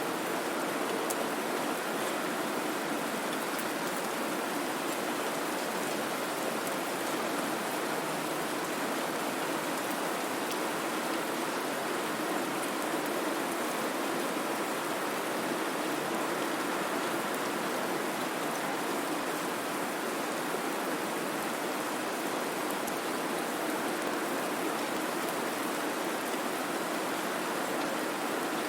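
Steady white-noise ambience: an even, unbroken hiss with a rain-like texture and faint scattered ticks.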